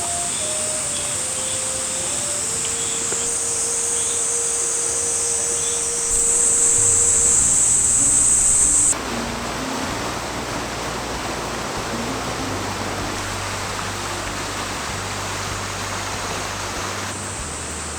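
Cicadas buzzing in a high, steady drone over soft background music of slow single notes and a low bass line. About nine seconds in, the buzzing cuts out, leaving a steady rushing hiss under the music.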